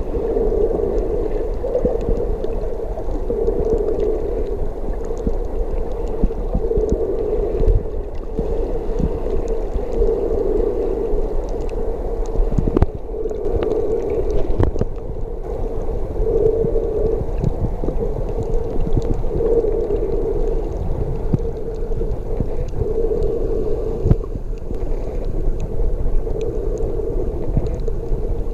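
Muffled sea water noise, mostly low and dull, with a swell that comes back about every second and a half and a few faint clicks.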